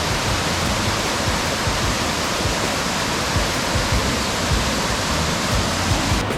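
Waterfall: a steady, even rush of falling water, loud and full across high and low. Just before the end the hiss turns duller all at once.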